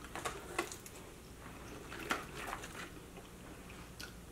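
Close-up eating sounds: biting into and chewing a sauced chicken wing, with short wet, smacking clicks in two clusters, about half a second in and again about two seconds in.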